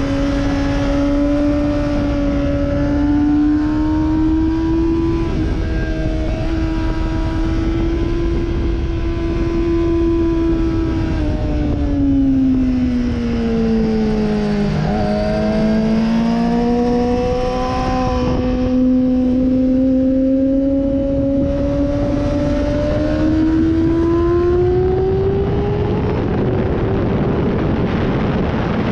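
Sportbike engine running hard at high revs; its pitch drops about halfway through as the bike slows, then climbs steadily as it accelerates again. Near the end a rush of wind noise drowns the engine note.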